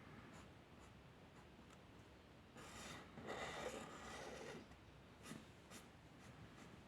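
Faint scratching of a drawing tool on paper: a couple of seconds of longer strokes in the middle, then a few short, light marks.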